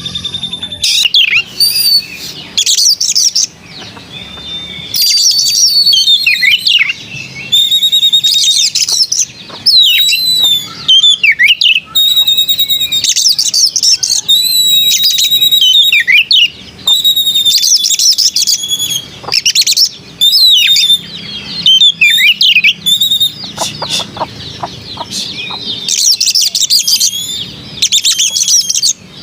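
Oriental magpie-robin singing: loud, varied whistled phrases with quick trills and slurred notes, in bursts of a second or two with short pauses between.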